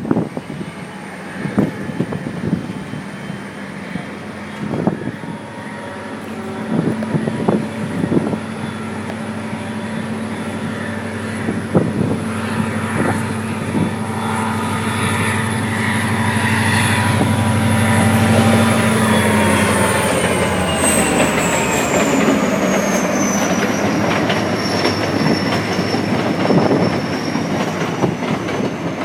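A train passing, its wheels knocking over rail joints and growing louder toward the middle, with a high thin wheel squeal that slides down in pitch in the second half.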